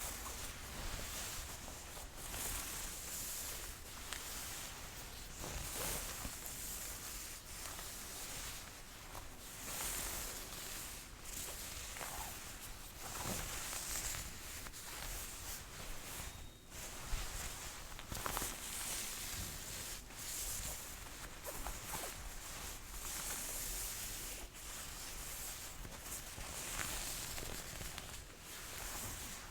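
Jacket sleeve fabric rustling and swishing close to the microphone as it is rolled and handled, with occasional small clicks.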